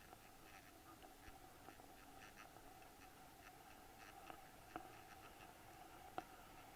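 Near silence with a faint steady hum and scattered small clicks, two of them a little sharper near the end.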